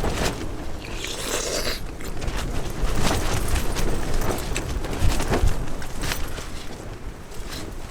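Rustling and scraping with scattered short clicks, over a low rumble of wind on the microphone.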